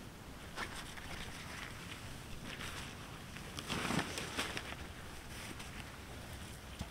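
Scattered rustles and light knocks of gear being handled, loudest about four seconds in, over a low rumble of wind.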